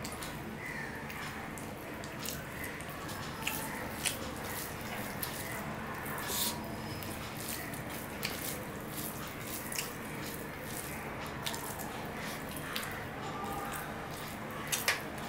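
Close-up eating sounds: wet chewing and lip smacks with many short sharp clicks, as rice mixed with curry is eaten by hand.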